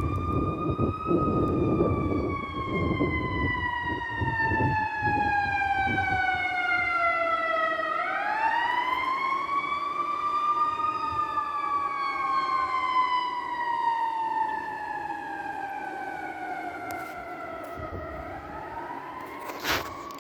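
Emergency vehicle siren in a slow wail: each cycle climbs quickly to a high pitch and then slides slowly down over several seconds, twice, with heavy vehicle engine rumble under it for the first several seconds. A brief sharp noise near the end.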